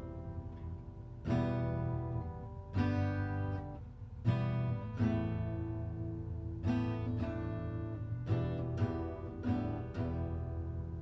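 Acoustic guitar strumming slow chords, single strokes that ring out between them, about one every second or so.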